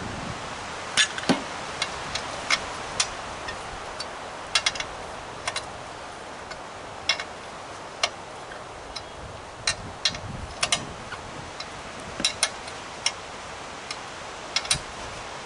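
Irregular sharp clicks and taps of hand tools on metal as an air compressor is being dismantled, some of them in quick clusters of two or three, over a steady background hiss.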